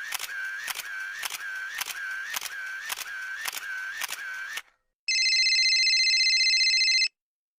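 Sound effects: a run of about nine sharp clicks, roughly two a second, with a high tone between them, then after a short gap a steady electronic ring with a fast warble lasting about two seconds that cuts off suddenly.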